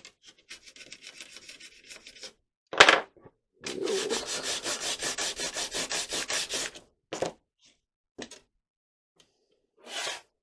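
Hand sanding with sandpaper: light scratching, then a sharp knock, then about three seconds of fast, even back-and-forth strokes at roughly six a second. A few short knocks follow near the end.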